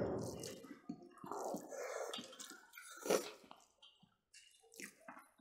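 Close chewing and wet mouth sounds of people eating smoked pork ribs by hand, coming in irregular soft bursts with small clicks, the sharpest about three seconds in.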